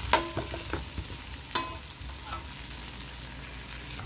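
Potatoes and curry paste frying in oil in a nonstick pot with a steady sizzle, being stirred with a metal spoon that scrapes and clinks against the pan. The loudest clinks come at the very start and about a second and a half in. The curry is being fried dry, before any water is added.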